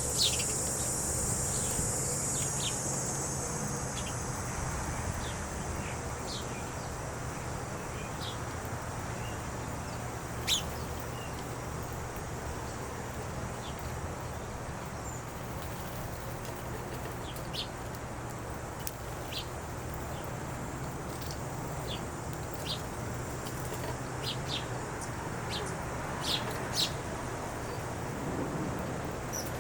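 Small birds chirping: scattered short chirps throughout, a few louder than the rest, over steady low background noise. A high steady buzz fades out over the first few seconds.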